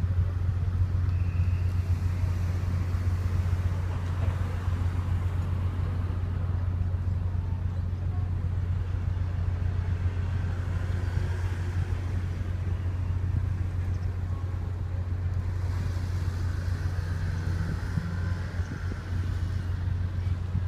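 Ship's engines droning steadily, a deep, even hum.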